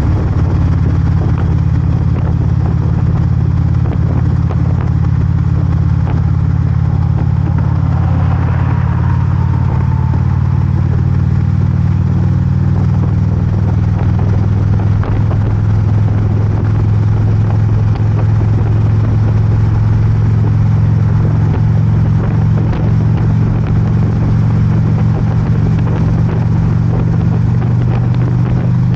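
Harley-Davidson motorcycle engine running steadily at a cruise, a loud even low rumble. About nine seconds in, a brief falling tone passes over it.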